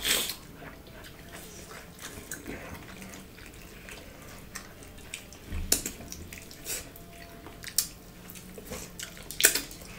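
People eating rice and pork by hand: wet chewing and lip-smacking with many small clicks, and a few sharper clicks just after the start, near the middle and near the end.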